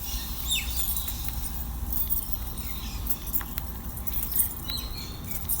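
Outdoor aviary ambience: short, high bird calls falling in pitch sound a few times, with faint high clicks, over a steady low rumble.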